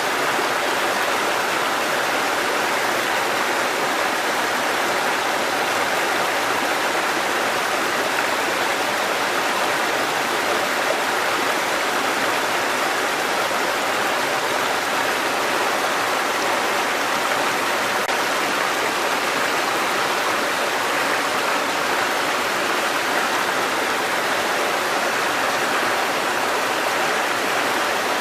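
Mountain stream water cascading over rocks: a steady, unbroken rush.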